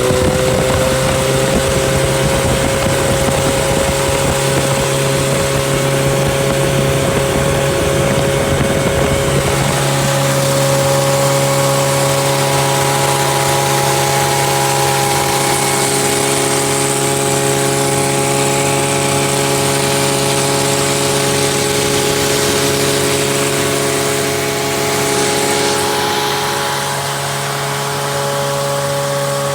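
Freshly rebuilt four-cylinder engine running loud with no muffler, held at a steady raised speed. Its pitch creeps up slightly at the start and then holds. A low rumble underneath drops away about ten seconds in.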